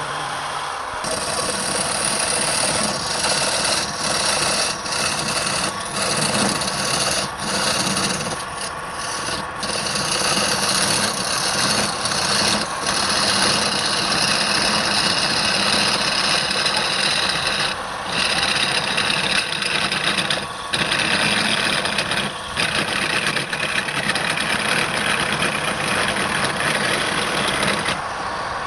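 Woodturning on a lathe: a tool scraping against the spinning wood in a steady rasping rub, with brief breaks every few seconds.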